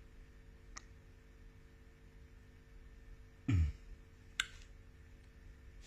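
Quiet room with a faint steady hum. A man lets out a short low grunt or breath about three and a half seconds in, then sniffs once, reacting to the heat of a freshly eaten ghost-type chilli pepper.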